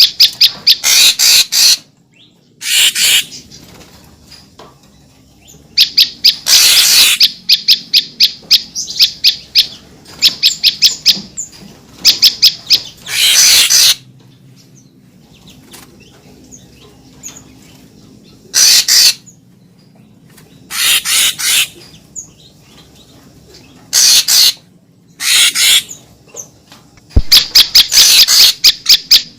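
Deot (murai papua) lure call: series of rapid, high, repeated notes, each run lasting about one to two seconds, broken by short pauses.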